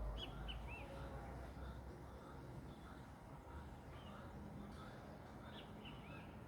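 Small birds chirping: short, high notes in two quick groups of about three, one just after the start and one near the end. There is a low rumble at the very start.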